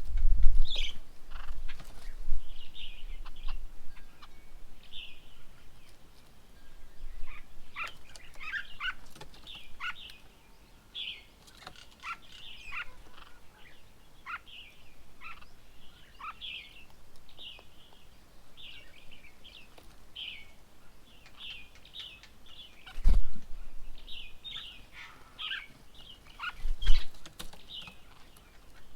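Birds at a feeding table calling with many short chirps and rapid call notes, busiest in the middle of the stretch. Two brief low thumps come late on.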